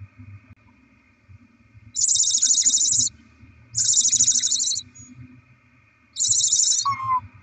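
Barn owls giving hissing, rasping screeches: three of about a second each. A short whistled note follows near the end.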